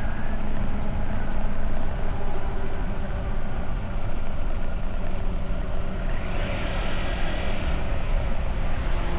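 Motorbike engine running under way, mixed with heavy wind rush on the microphone. About six seconds in, a higher engine note rises over it for a couple of seconds.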